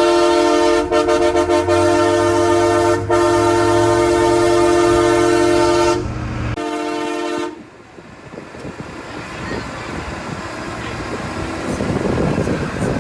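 Large truck air horn sounding one long, loud multi-tone blast of about six seconds, then a short second blast. It is followed by quieter vehicle running noise that grows toward the end.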